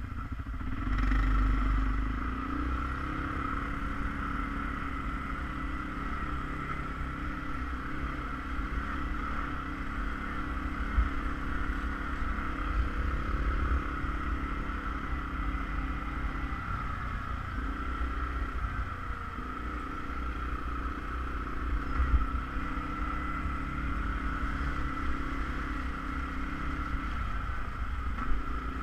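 ATV engine running steadily under way, with a low rumble and a few sharp knocks.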